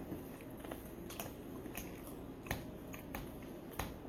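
Faint, scattered clicks, about five in four seconds at irregular spacing, over low room noise.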